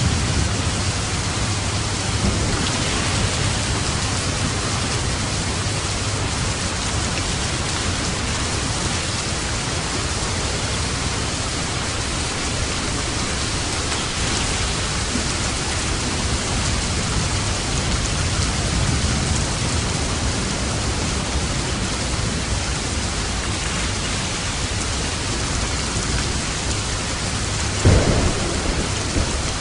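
Steady heavy rain falling, with a low rumble of thunder underneath and a short, sharper thunder crack near the end.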